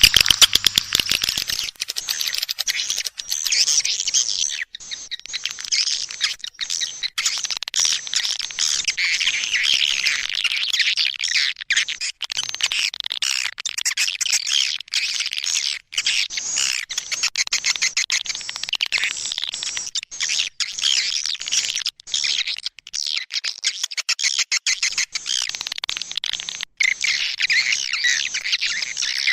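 Recorded calls of edible-nest swiftlets: a dense, continuous stream of rapid twittering chirps. This is a lure call, played to draw swiftlets into a bird's-nest house.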